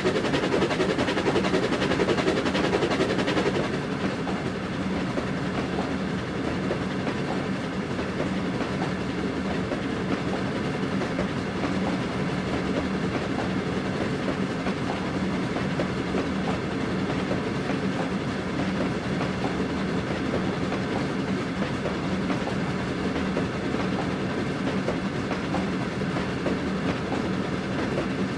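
Railway carriages running along the track: a steady rumble and clatter of wheels on rails. It is louder for the first few seconds, then holds even.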